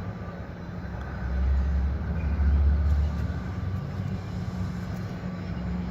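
Low rumble of passing vehicle traffic, swelling about a second in and easing after three seconds, over a steady low hum.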